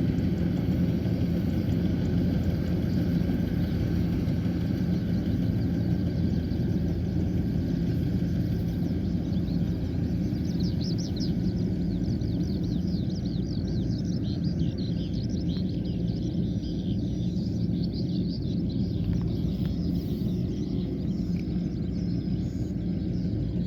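Kubota combine harvester engine running steadily, a low even hum. About ten seconds in, rapid high chirping starts and carries on over it.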